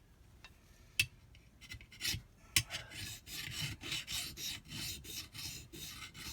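A metal hand file working the fin edges of a jet-ski pump impeller. It opens with a few sharp taps and clicks as the file is set on the part. From about two and a half seconds in come quick, even rasping strokes, about three a second, taking burrs off the fins.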